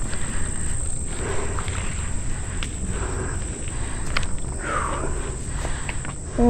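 Wind rumbling on the microphone with scattered clicks and rattles, over a steady high-pitched drone of insects.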